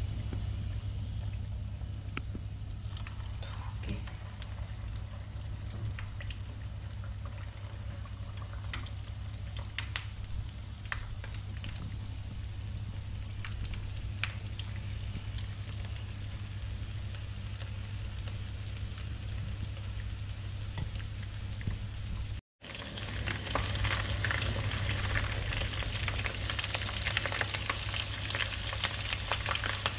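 Battered shrimp deep-frying in a pan of hot oil: scattered pops and crackles over a steady low hum. After a brief dropout about two-thirds of the way through, it comes back as a denser, louder sizzle.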